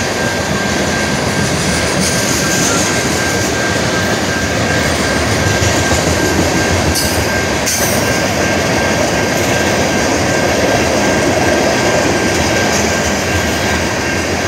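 Freight train of tank cars rolling steadily past at close range, with a continuous rumble of wheels on rail. A thin, steady high tone runs over it, and a couple of brief sharp squeaks come about halfway through.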